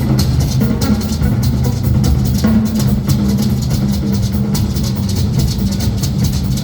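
Live blues-rock band playing, with the drum kit to the fore: a steady run of cymbal and drum hits over sustained low bass notes.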